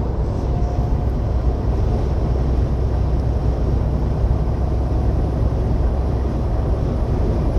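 Steady low rumble inside a semi-truck cab at highway speed: diesel engine, tyre and road noise, with strong crosswinds buffeting the truck.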